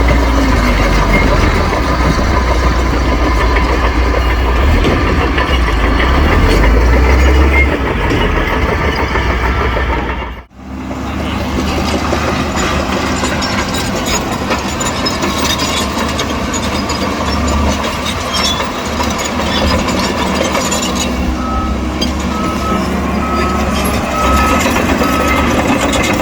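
Heavy diesel earthmoving machinery, a bulldozer and dump trucks, running steadily under load, with a brief break in the sound about ten seconds in. Near the end a reversing alarm beeps repeatedly for a few seconds.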